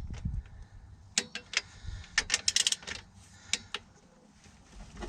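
Sharp metallic clicks of a ratchet wrench on engine bolts, in a few irregular bursts from about a second in to nearly four seconds in.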